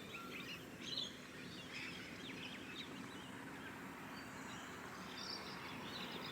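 Faint birds chirping and twittering, short scattered calls, over a steady outdoor background hiss.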